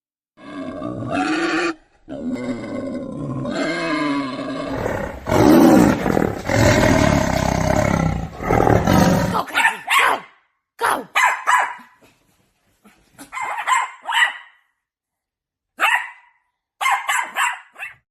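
An animal calling: long drawn-out growling calls for about the first nine seconds, then a string of short, sharp calls.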